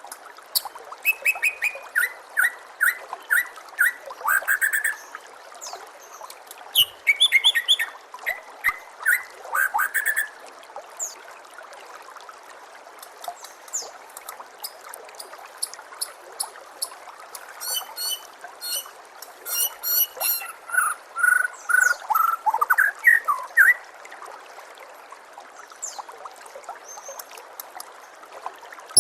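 White-rumped shama (murai batu) singing varied phrases of whistles, rapid trills and chattering notes in several bursts, with quieter gaps between them. A steady faint trickle of running water sits underneath.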